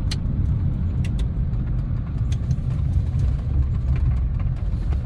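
Steady low rumble of a 2006 Chevy 3500 pickup driving down the road, heard inside the cab, with a few faint scattered clicks.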